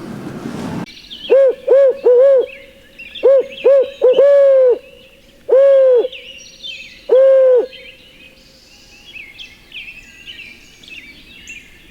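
Owl locator call blown in the barred owl's 'who cooks for you, who cooks for you-all' rhythm: eight loud hoots, each bending up and back down, starting quick and ending in two long drawn notes. It is a turkey hunter's call meant to make a gobbler shock-gobble. Small birds chirp faintly.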